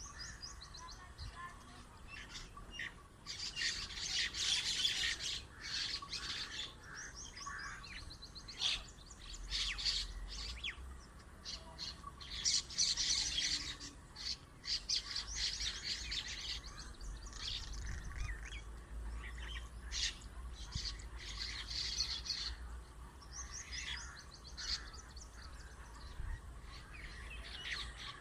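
Many small birds chirping together, a dense chatter of quick overlapping chirps that swells into busier spells and eases off again.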